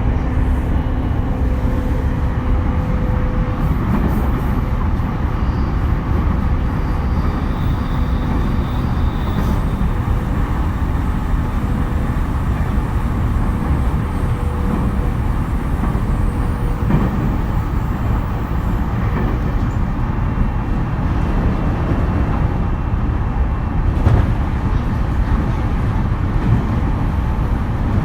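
E231 series electric commuter train running at speed, heard from inside the car: a steady rumble of wheels on rail and running gear, with faint steady tones above it.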